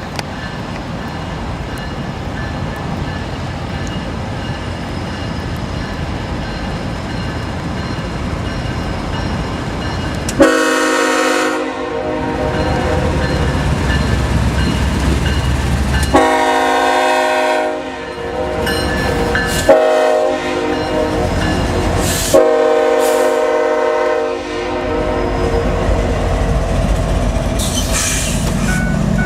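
Train horn sounding four blasts of a few seconds each, the first about ten seconds in, over the steady rumble of a train on the rails.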